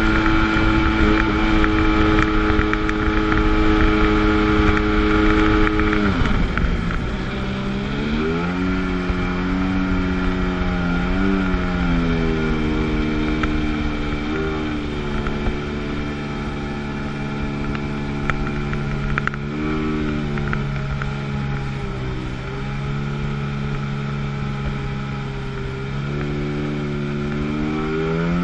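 1997 Sea-Doo GTS jet ski's two-stroke twin engine running at a steady high pitch, then throttled back about six seconds in. The revs dip and surge a few times, settle to a steadier, lower pitch, and rise again near the end.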